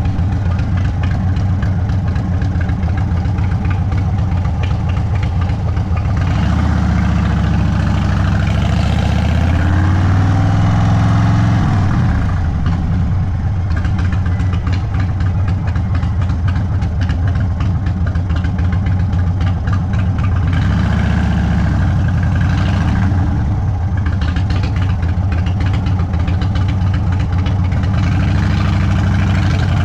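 Indian Sport Chief's Thunderstroke 116 V-twin engine running at low cruising speed through an aftermarket Sawicki Speed exhaust. Its pitch rises and falls as it accelerates and eases off, most clearly between about six and twelve seconds in and again around twenty-one seconds.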